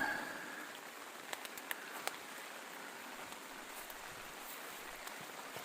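Steady rain falling, with a few sharp drip ticks between one and two seconds in.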